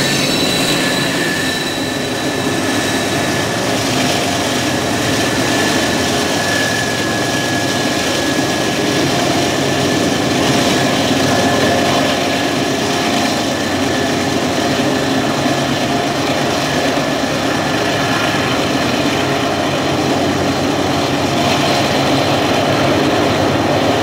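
BNSF diesel-electric locomotive and its coal train passing, with a steady loud engine drone and rolling train noise. A thin, high wheel squeal is heard at the start and fades out about three-quarters of the way through.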